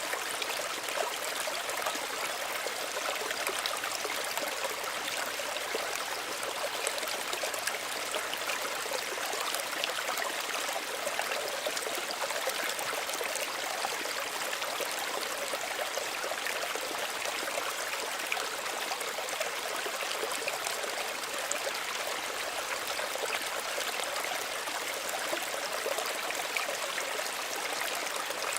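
Small stream running steadily, a continuous gentle rush of water with fine trickling and bubbling detail.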